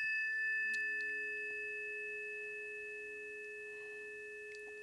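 A planetary tuning fork, struck just before, ringing on as a steady pure tone with two higher overtones and fading slowly.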